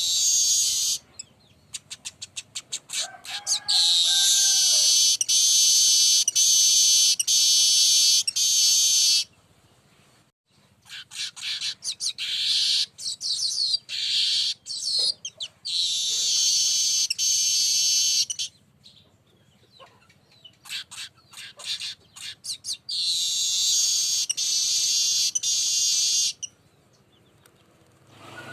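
Weaver bird (manyar) song: runs of quick dry ticks building into long, high, wheezy buzzing phrases. The bout is repeated about four times with short pauses between.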